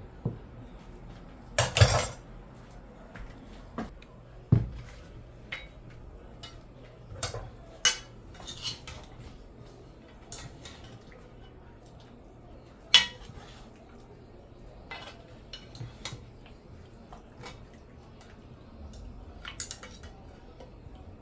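Kitchen utensils knocking and clinking against pots and plates in scattered, irregular strikes, with a louder rattle about two seconds in and a sharp clink about thirteen seconds in.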